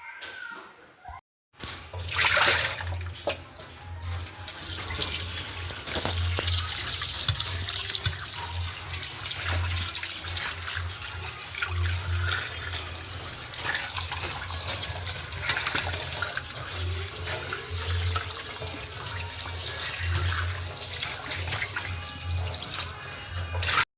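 Tap water running steadily into a kitchen sink.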